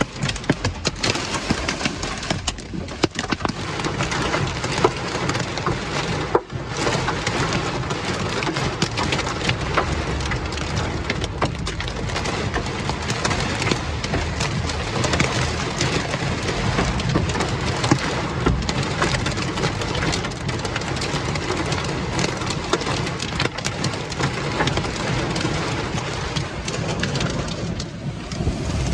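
Heavy rain in a severe thunderstorm, a dense steady wash of rain with many sharp ticks of drops striking close by, briefly easing about six seconds in.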